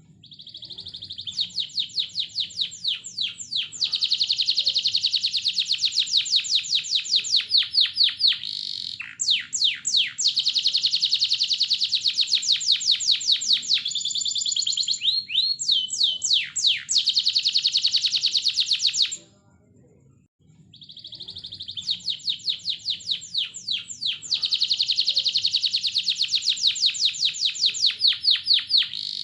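Domestic canary singing long, fast trills and rapid runs of repeated high notes, a master song used as a lure to set other canaries singing. The song breaks off for about a second and a half about two-thirds of the way through, then starts again.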